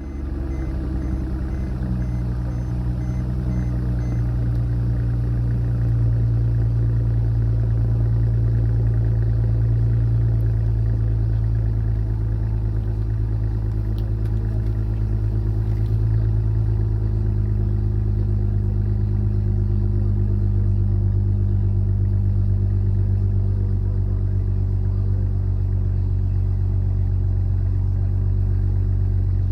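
2008 Mercedes C350's 3.5-litre V6 idling with its muffler deleted, just after a cold start. It runs as a steady, deep exhaust rumble that grows a little louder over the first few seconds, then holds even.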